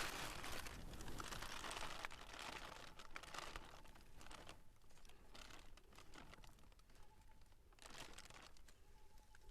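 Faint, irregular rustling and crackling with scattered small clicks, heaviest in the first couple of seconds and coming again in short bursts later.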